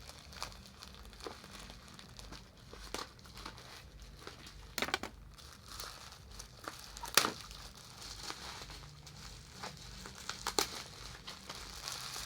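Plastic parcel packaging crinkling and rustling as it is handled and opened, with scattered sharp crackles and snaps; the loudest snap comes about seven seconds in.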